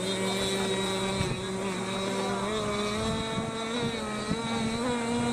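Two-stroke petrol engines of radio-controlled racing monohulls, Zenoah G260-type, running at high revs on the water. The pitch holds high and steady with slight wavering.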